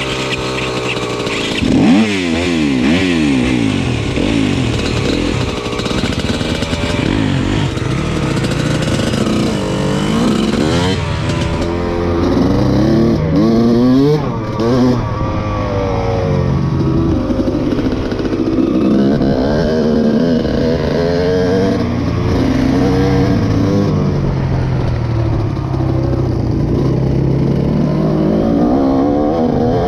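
Dirt bike engine running and revving, its pitch rising and falling over and over as the throttle is opened and closed.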